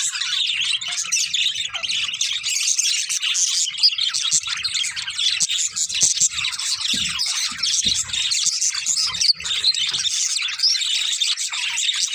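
Budgerigars chirping and chattering in a continuous, dense stream of high chirps.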